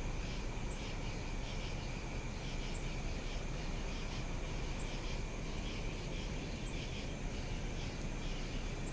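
Outdoor night ambience: insects, likely crickets, chirping in a steady fast pulsing pattern over a low, steady rumble, with a faint high tick about every two seconds.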